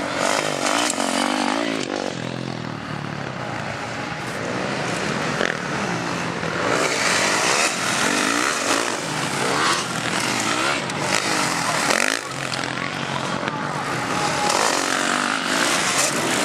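Several motocross bikes racing, their engines revving up and falling back as they work round the track.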